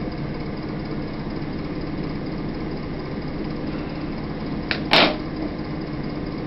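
Steady low mechanical hum, with a short click and then a louder thump about five seconds in.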